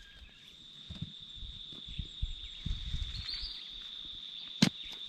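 A steady high-pitched insect drone, with scattered soft low thuds and one sharp knock about four and a half seconds in.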